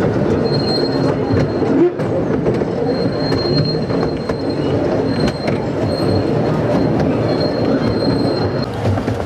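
A 12¼-inch gauge miniature steam railway train running over its track with a steady rumble. Its wheels give a thin, high squeal on and off as it takes the curve, with scattered clicks from the wheels on the rails.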